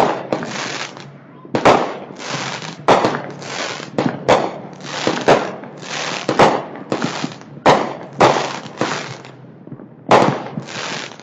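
Commercial fireworks going off in a rapid series: a sharp bang about once a second, each with a short crackling tail, and a pause of about a second near the end.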